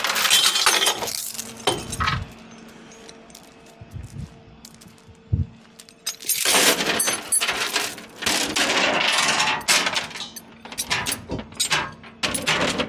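Steel tie-down chains clinking and rattling as they are handled, in irregular bursts. A long, loud stretch of rattling runs from about six and a half to ten seconds in.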